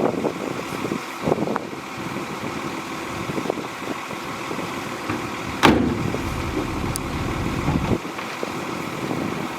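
Shantui DH17C2 bulldozer's diesel engine running steadily, with one sharp knock a little past halfway followed by a deeper rumble for about two seconds.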